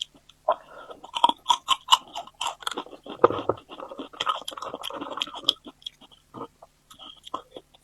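A person chewing food, close to the microphone, with many quick wet clicks and crunches. They come thick for the first five seconds or so, then thin out to a few.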